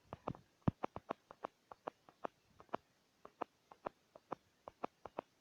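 Quick, irregular tapping, about three to four sharp taps a second, made to keep the bird flapping in a Flappy Bird–style game.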